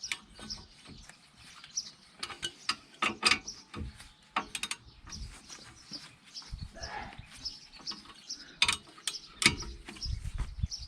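Ratchet wrench clicking and steel tools knocking as a bolt is tightened, with a length of pipe slipped over the handle for extra leverage.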